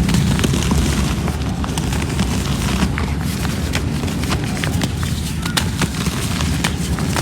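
Cement chunks crumbling and crunching: a dense run of small crackles over a heavy low rumble.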